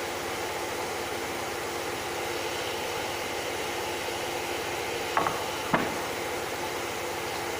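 CNC router running steadily, a constant hum with a steady tone over a hiss. Two short knocks come about five seconds in, half a second apart.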